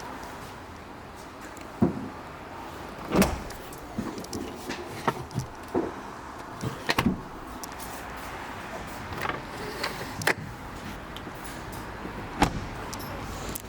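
Scattered clicks and knocks, as of a Ford S-Max's doors and fittings being opened, closed and worked, about a dozen in all, the loudest about three seconds in.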